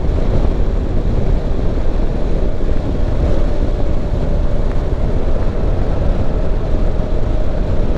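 Motorcycle riding along at a steady pace: a constant rush of engine, road and wind noise, heaviest in the low end, with a faint steady hum.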